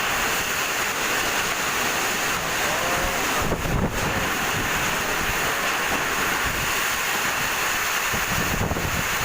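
Heavy rain and strong storm wind: a loud, steady roar, with wind gusts buffeting the microphone about three and a half seconds in and again near the end.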